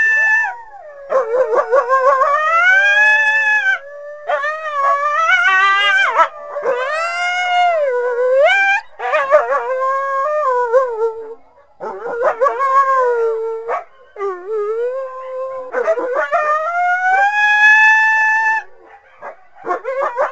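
Coyotes howling and yipping: long wavering howls that rise and fall in pitch, several voices overlapping, broken by short pauses, with quick yips near the end.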